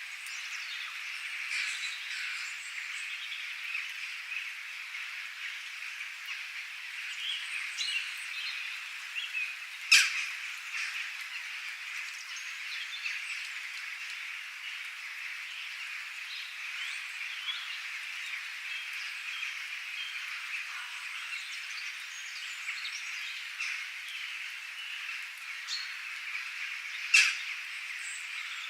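Outdoor chorus of frogs and birds: a steady, dense chatter of calls with short chirps over it. Two sharp, loud calls stand out, one about ten seconds in and one near the end.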